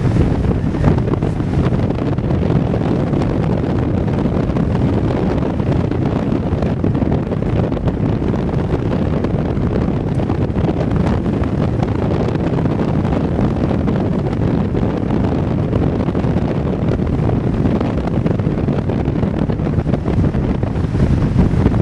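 Strong wind buffeting the microphone: a steady, loud, low rumbling rush.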